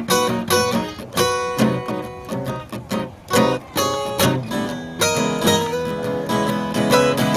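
Acoustic guitar being strummed in chords, a steady run of strokes.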